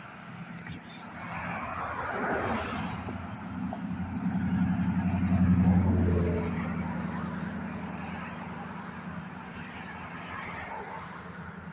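A car passing by on the road, its engine and tyre noise swelling to a peak about halfway through and then fading away.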